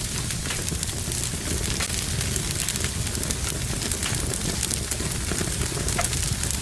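Wood fire burning in a fireplace, crackling steadily with frequent small sharp pops over a low rumble of the flames.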